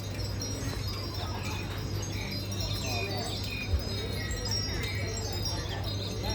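Metal chimes ringing, many high tones overlapping and sustaining, over a faint murmur of voices and a low hum; a brief thump a little past halfway.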